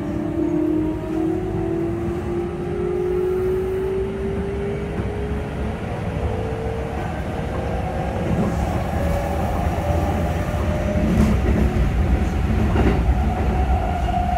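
Keikyu 600 series electric train heard from inside the car as it runs, with the wheels rumbling on the rails. A motor whine climbs slowly in pitch as the train picks up speed and fades out. About thirteen seconds in there is a single sharp knock, and near the end a steady higher tone sounds.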